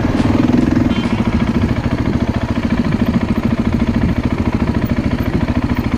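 Motorcycle engine running at low, steady revs with an even chugging pulse.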